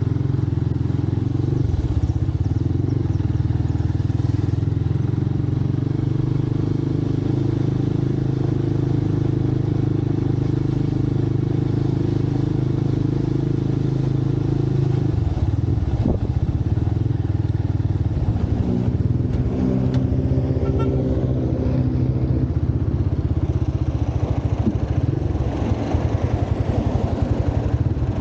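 Motorcycle engine running steadily while riding through traffic. About halfway through the engine note drops, then picks up again with a new pitch as the bike gets under way.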